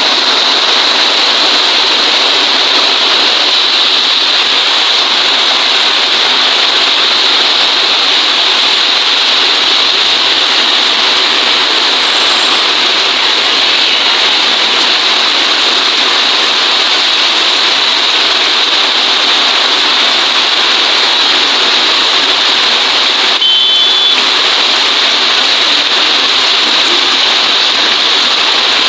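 Steady rain, a loud, even hiss that does not let up, with one brief high tone about three-quarters of the way through.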